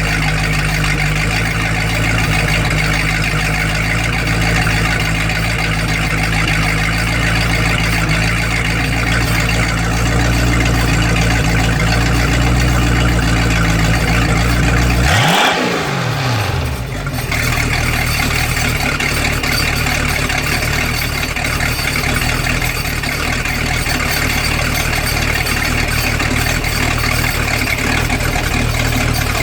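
Boat engine running out of the water on flushing earmuffs fed by a garden hose, holding a steady speed. About halfway through, its pitch drops and then climbs back up.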